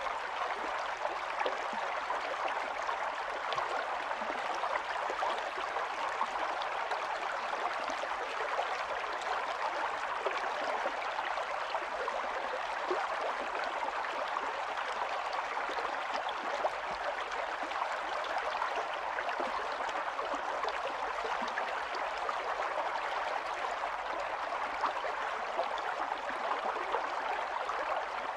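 A small stream's running water, a steady rush of burbling and splashing that holds even throughout.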